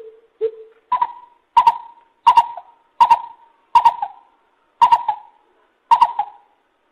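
Lesser coucal calling: a series of short hollow notes, two lower ones followed by seven higher, each pitched note dropping slightly. The notes come roughly every two-thirds of a second, in the repeated "cu-ra-ual" phrase of the species.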